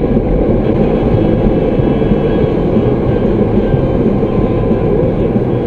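Steady, loud low rumble of a moving vehicle, engine and road noise without any distinct events.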